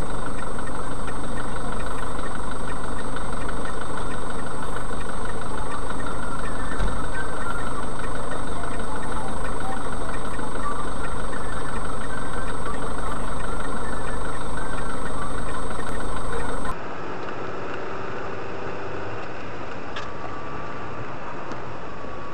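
Car engine and cabin noise picked up by a dash cam, running steadily. It cuts off abruptly about three quarters of the way in, replaced by a quieter, duller recording of the same kind of vehicle noise.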